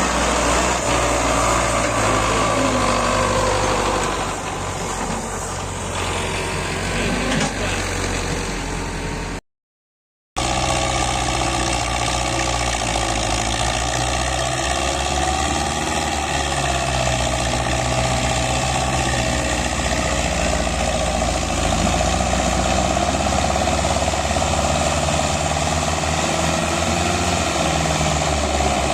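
Tractor engine running steadily, broken by about a second of silence about ten seconds in, then running on.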